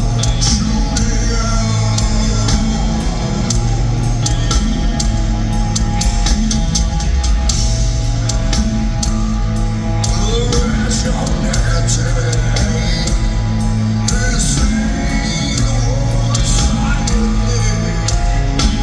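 Heavy metal band playing live in an arena, with a singing voice over sustained low guitar and bass notes. It is a continuous, loud audience recording with the echo of a large hall.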